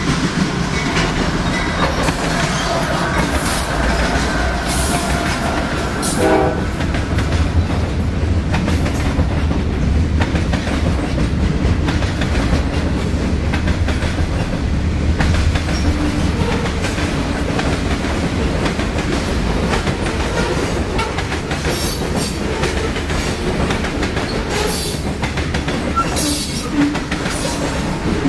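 A CSX freight train passing close by, loud and steady: first the diesel locomotive's engine rumble, then the rumble and clatter of freight cars rolling over the rails. Sharper clanks come now and then near the end.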